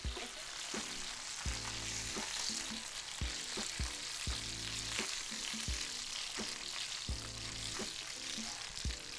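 Seed-crusted bonito pieces sizzling as they sear in hot olive oil in a frying pan, a steady frying hiss. Background music with a steady beat plays underneath.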